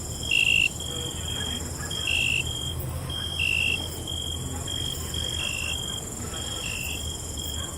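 Night crickets chirping: a steady high trill, with short repeated chirps and a louder chirp at a slightly lower pitch about every second and a half, over a low rumble.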